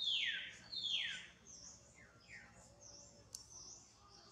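A bird calling with a run of downward-sliding whistled notes about once a second, the first two loudest and the later ones fainter, while other birds call faintly higher up. A single sharp tick comes about three seconds in.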